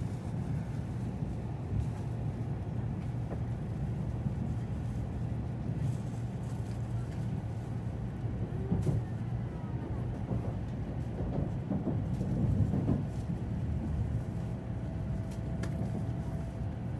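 Steady low rumble inside the cabin of a Tokaido Shinkansen Nozomi as it runs into Kyoto Station, with a faint steady whine near the end.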